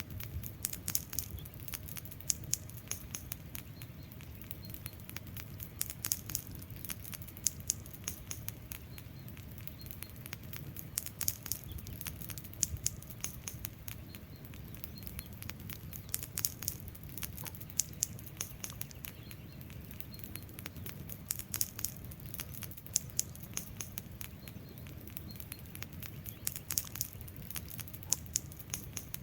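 Wood fire crackling and popping over the low rumble of burning flames, with clusters of sharper pops recurring about every five seconds.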